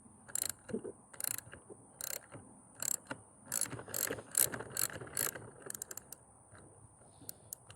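Ratchet wrench with a 1/2-inch socket clicking in repeated back-strokes as it loosens a skateboard axle nut. The bursts of clicks come roughly every half second to second, then thin to a few scattered clicks near the end.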